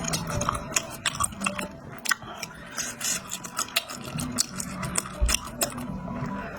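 Close-miked eating sounds: chewing and biting, with many short sharp clicks and smacks coming irregularly, several a second.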